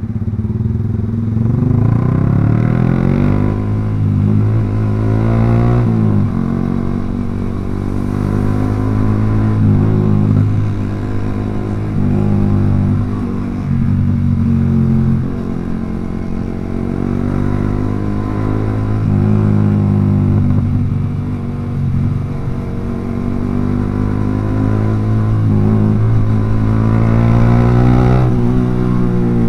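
Yamaha R15 V3's single-cylinder engine through a Proliner aftermarket racing exhaust, ridden at speed. The engine note rises and falls several times as the throttle is opened and closed.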